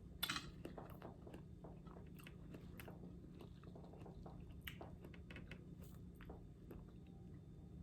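Faint, close chewing of caramel-dipped apple: a louder crunch just after the start, then many small, irregular crunching and wet chewing clicks.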